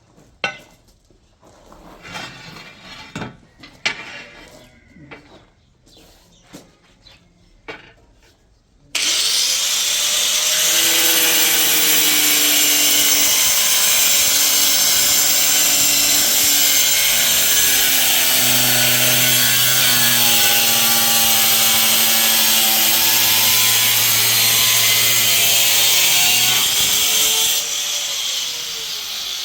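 Faint clinks and knocks, then about nine seconds in a loud electric motor starts abruptly and runs for most of twenty seconds, its pitch shifting up and down as it works, before dropping off near the end.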